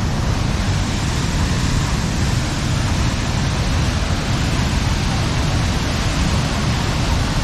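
Waterfall with water rushing steadily, a loud, even noise with no breaks.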